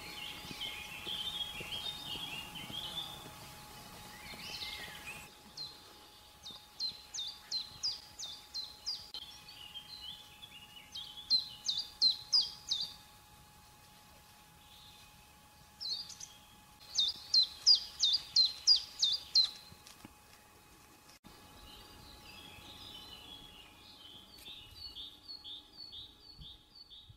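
Songbirds singing: soft twittering at first, then repeated phrases of sharp, high, downward-sweeping notes at about four a second, and softer twittering again near the end.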